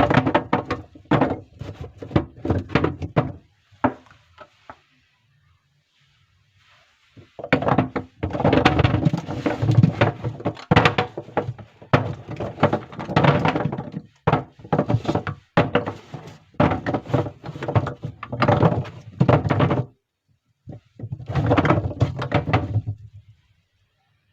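Soap packaging being handled and opened: close, dense runs of crackling, tearing and knocking in three spells, with a quiet pause from about four to seven seconds in and another brief one near twenty seconds.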